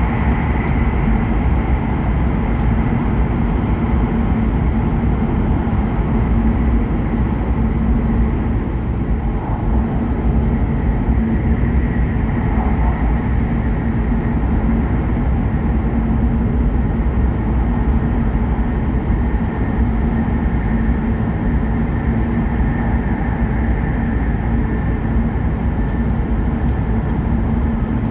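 Steady rumble and hum of a Hokuriku Shinkansen train running, heard from inside the passenger car, with a constant low drone and a faint high whine over it.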